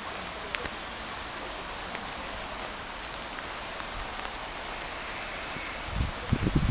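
Steady hiss of open-air background noise with a couple of faint clicks, then, about six seconds in, a loud low rumble sets in and grows as a diesel locomotive approaches along the line.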